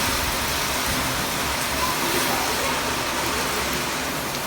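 Heavy rain and strong wind: a steady rushing hiss, with an uneven low rumble of wind buffeting the microphone.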